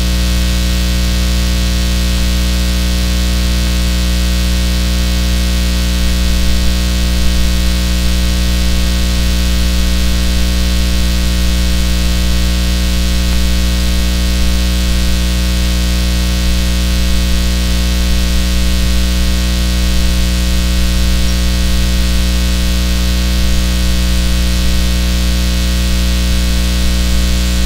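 Steady electrical hum: a loud low buzz with many overtones over a bed of hiss, unchanging throughout.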